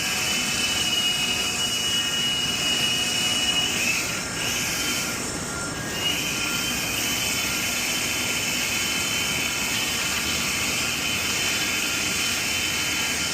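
Drain-cleaning machine running steadily while it clears a clogged kitchen drain line: a constant rushing hiss with a high whine on top. It eases off briefly about four seconds in, then comes back.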